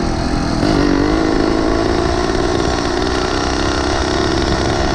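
Small engine of a motorized 20-inch bicycle running while riding, its pitch rising a little just under a second in as it speeds up, then holding steady.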